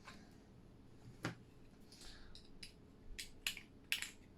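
Light clicks and taps of small plastic and metal parts being handled as a diecast model car is taken apart, with its interior piece lifted out. The clicks are scattered, with more of them in the second half.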